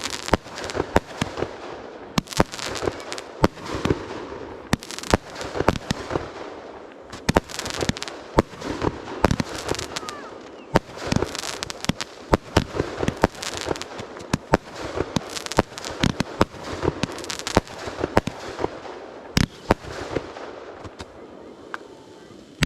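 Fireworks going off in quick, irregular succession: many sharp bangs, often several a second, over a continuous crackle.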